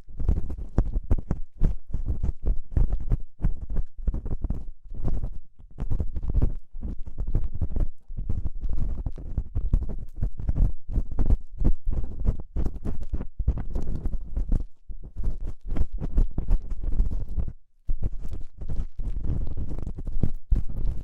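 Ear-cleaning tool scraping and rubbing in the ear of a binaural microphone: a rapid, irregular run of crackly scratches, heavy in low rumble, with one brief break late on.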